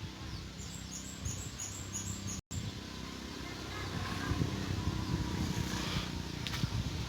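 White-eyes (pleci) calling: a quick run of short, very high, thin chirps over a steady low rumble. The sound cuts out briefly about two and a half seconds in, and fainter calls follow.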